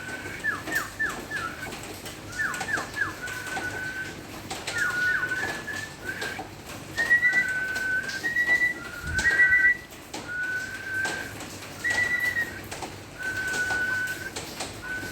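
Hill myna whistling a run of calls: clusters of quick falling whistle notes alternate with held, level whistles, some with a second, higher note above.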